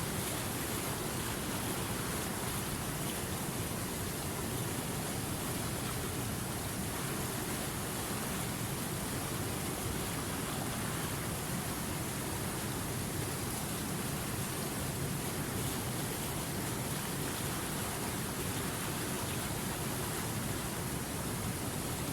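River water running steadily, an even rush of flowing water that does not change.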